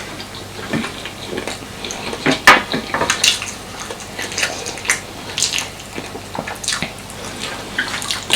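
Close-up eating sounds: irregular moist mouth clicks and smacks of chewing soft food, with a sharper click about two and a half seconds in.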